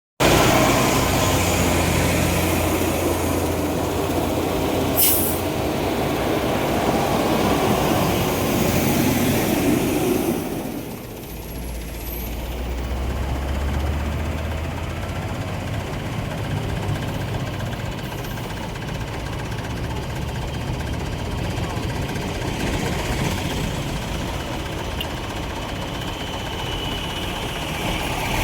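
Heavy truck engines running close by amid road traffic noise, with a brief hiss about five seconds in. The sound dips about ten seconds in, then a deep steady engine hum carries on.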